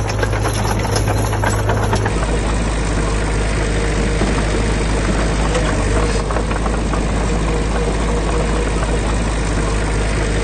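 Diesel engine of heavy construction machinery running steadily; the sound changes abruptly about two seconds in.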